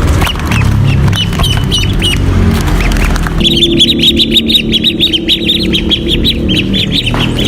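Many birds chirping. Scattered high calls over a low rumble give way, about three and a half seconds in, to a dense, rapid chatter of overlapping chirps.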